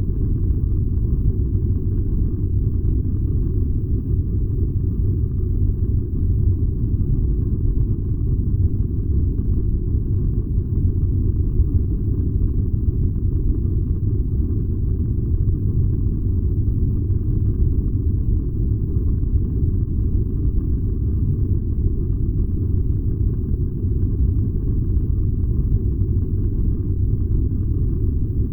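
Furnace fire burning with a steady, low rumble that does not change.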